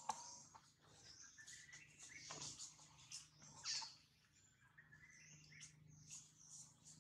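Faint bird chirps and short calls, with a few soft clicks, the loudest about halfway through.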